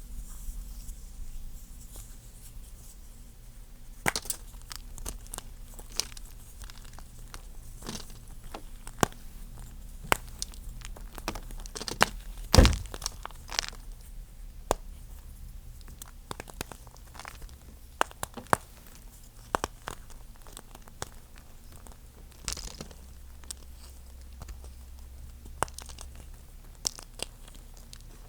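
A chalk egg being crushed and crumbled, giving irregular crunches and crackles, with the loudest crunch about halfway through.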